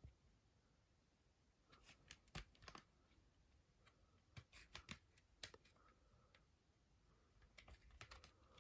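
Faint clicks and small taps of a CD and its packaging being handled, coming in three short clusters.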